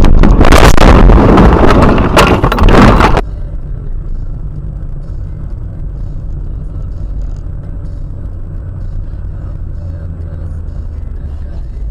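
A dashcam microphone overloads for about three seconds with the crunching, scraping noise of a car collision, then cuts off abruptly. Steady low road and engine rumble from inside a moving car follows.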